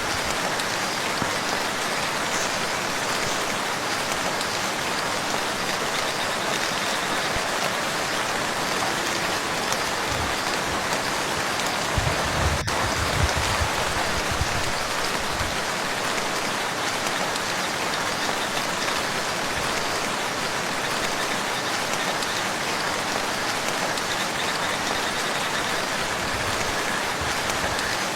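Steady rain falling on a lake surface, an even dense patter, with a few brief low rumbles about twelve seconds in.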